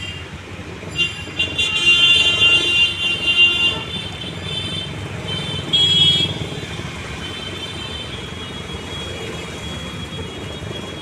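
Vehicle horns sounding repeatedly for a few seconds, then once more briefly, over a steady rumble of traffic.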